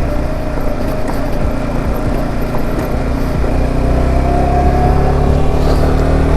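Motorcycle engine running under way, heard from the bike; its pitch rises steadily over the last couple of seconds as it accelerates.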